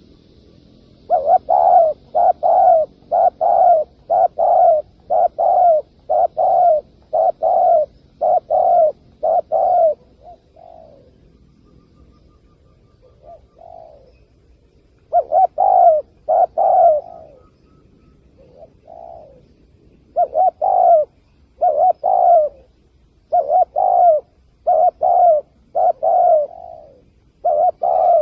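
Spotted dove cooing over and over in quick runs of short, loud notes, with a pause of a few seconds in the middle broken by a couple of softer coos. This is the excited calling of a wild dove that trappers use as a lure.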